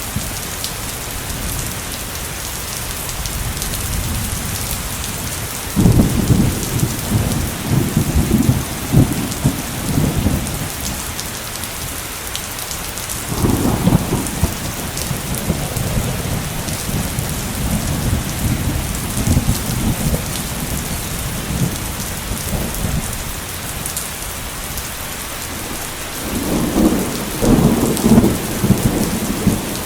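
Heavy steady rain hissing, with rolls of thunder rumbling three times: about a fifth of the way in, near the middle, and near the end.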